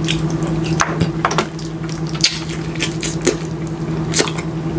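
Close-miked wet chewing and lip-smacking as a man eats saucy brown stew chicken off the bone, with irregular smacks, over a steady low hum.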